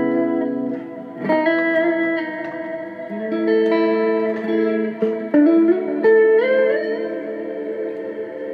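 Electric guitar played through a Zoom G3Xn multi-effects pedal preset: several sustained chords struck in turn, then a short run of notes stepping upward about six seconds in, the last one left to ring.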